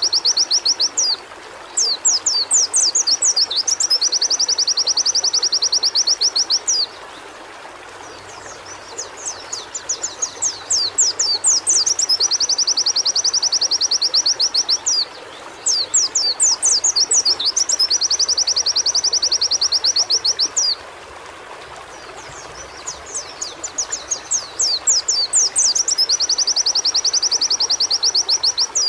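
Pleci (white-eye) singing in four long bouts. Each bout is a run of quick sweeping notes that runs into a fast, even, high trill, and short pauses separate the bouts. A steady rushing background noise lies underneath.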